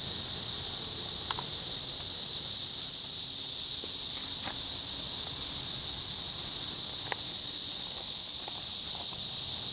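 Chorus of 17-year periodical cicadas: a steady, high-pitched drone with no breaks, and a few faint short chirps over it.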